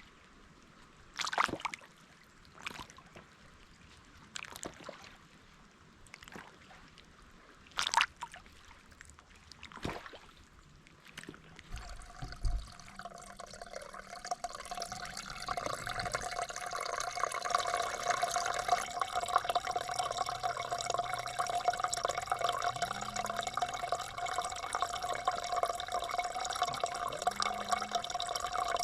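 Water dripping in a few separate drops, then from about twelve seconds in a steady trickle of running water.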